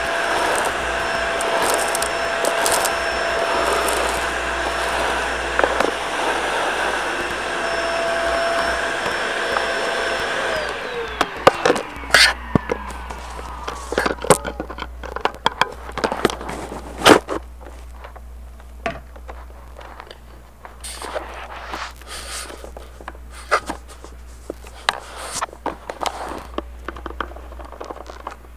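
Shark vacuum cleaner running steadily, then switched off about ten seconds in, its motor whine falling in pitch as it winds down. Afterwards, scattered clicks and knocks of handling.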